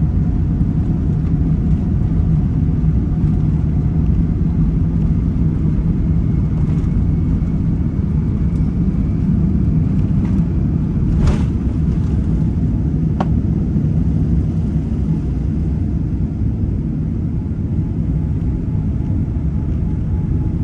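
Airplane engines during takeoff, a steady low rumble with a faint whine above it. There is a short click about eleven seconds in and another about two seconds later.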